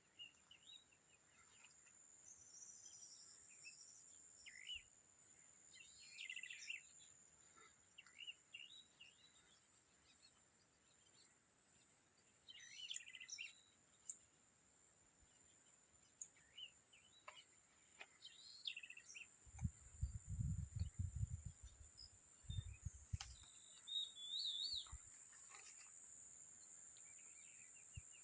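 Faint birds calling in scattered short chirps over a steady, thin high-pitched tone. Low rumbling bursts come about two-thirds of the way through.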